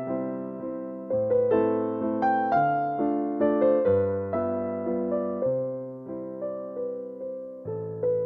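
Slow, gentle piano music: single melody notes struck every half second or so, each decaying, over held low bass notes.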